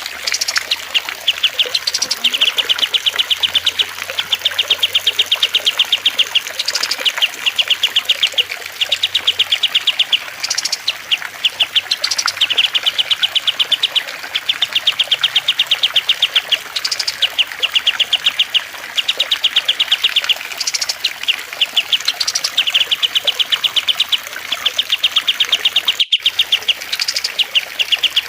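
Cage-bird song-training mix of cililin, kastem and lovebird songs: rapid high trills, each about a second and a half long, repeat over and over with short rising chirps between them. A soft trickle of water runs underneath, and the sound cuts out for a split second near the end.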